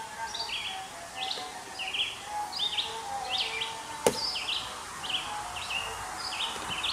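Birds chirping in a quick, steady run of short calls, with one sharp click about four seconds in.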